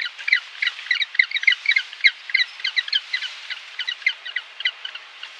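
A flock of birds calling: many short, overlapping calls, several a second, the calling thinning slightly near the end.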